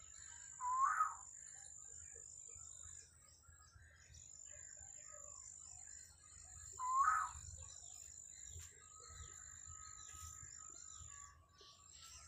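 A bird calling twice, about six seconds apart, each call a short rising chirp, over a steady high-pitched whine.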